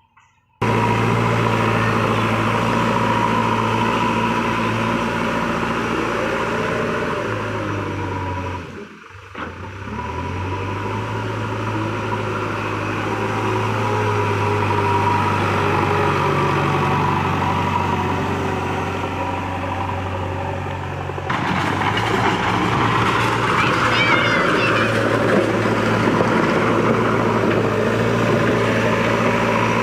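Heavy diesel engine of a tractor or backhoe loader running steadily, the sound changing abruptly about nine seconds in and again about twenty-one seconds in.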